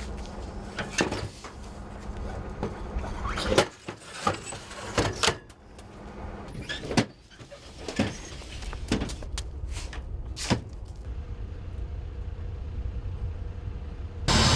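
Irregular sharp clicks and knocks, like hardware being handled or latched, over a steady low hum. The loudest knocks come about three and a half and seven seconds in.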